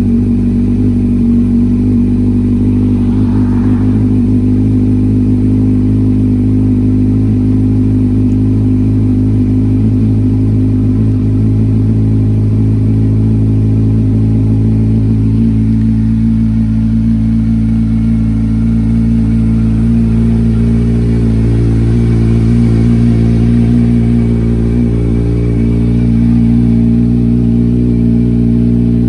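Kawasaki Ninja 1000's inline-four engine idling steadily just after a cold start, through an aftermarket slip-on exhaust.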